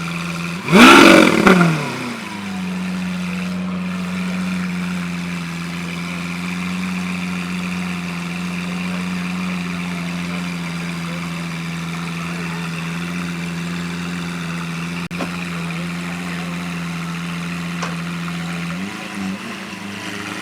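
A car engine idling steadily, with one quick rev blip about a second in, the loudest moment, rising and dropping back to idle.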